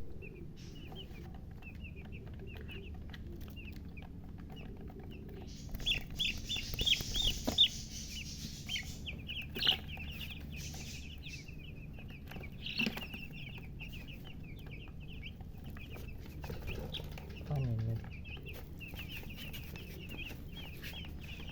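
Baby chicks peeping without a break: many quick, high cheeps, with a run of louder peeps about six to eight seconds in. A steady low hum runs under them.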